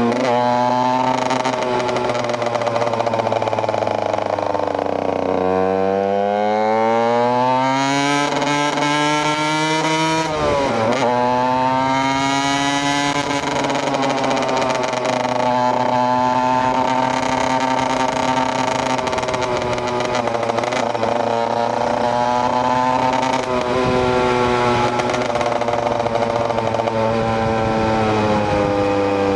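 KTM EXC 125 two-stroke single-cylinder engine on the move, its revs sinking and climbing. About ten seconds in the revs drop and jump back sharply, then hold fairly steady with small rises and falls.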